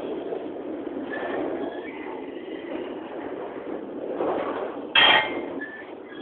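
Intermodal freight train cars rolling past close by: steady rumble and rattle, with brief faint squeals and one sudden loud clank about five seconds in.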